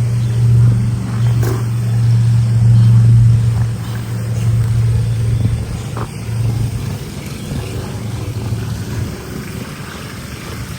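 A steady low engine-like hum, loudest for the first few seconds, then fading away over the second half.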